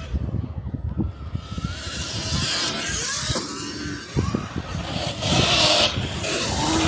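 Dirt bikes running on a motocross track, their pitch rising and falling, with a rough rumble throughout.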